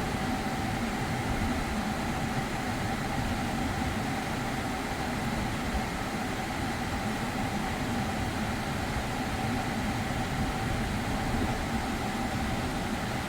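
Steady mechanical running hum with faint steady whining tones, from a car's air-conditioning system being run and charged with refrigerant.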